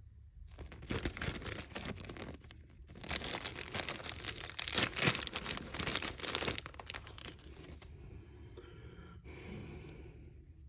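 Dry crackling and rustling in two long spells, the second louder, then fainter rustling and a short hiss near the end.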